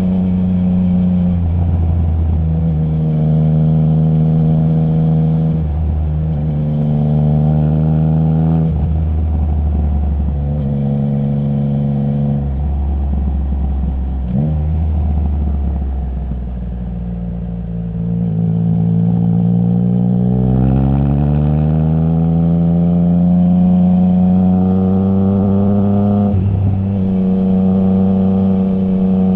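Triumph Trident 660's inline three-cylinder engine through a baffle-less Zard stainless full exhaust, heard from the rider's seat: revs rise and fall with several quick, clipped gear changes, and a long steady climb in revs about two-thirds of the way through.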